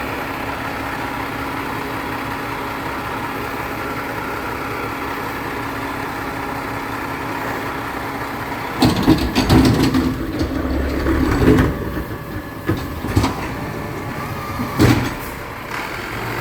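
Garbage truck engine running steadily. About nine seconds in, loud metallic clanks and bangs set in with a heavy rumble, then single knocks every second or two near the end, as from the truck's lifting and dumping gear at work.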